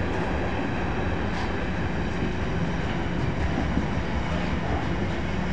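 Freight train of container wagons rolling past: a steady rumble of wheels on rail, with a few faint clicks.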